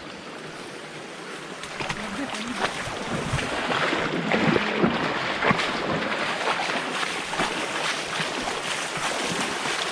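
Rushing water of a monsoon-swollen stream, growing louder about two seconds in, with scattered splashes and knocks over it.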